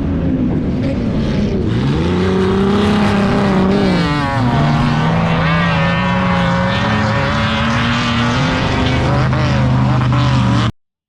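A car engine revving, its pitch rising and falling several times, then holding steadier in the second half. The sound cuts off abruptly near the end.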